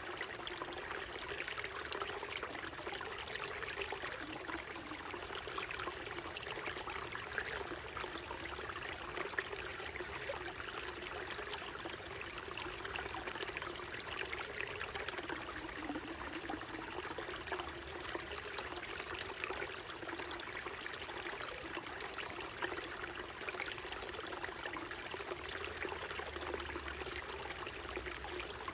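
Small mountain stream flowing steadily: an even rush of trickling water.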